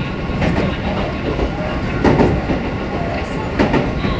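Train running, heard from inside the car: a steady rumble of wheels on track with a few sharp clacks as the wheels cross rail joints.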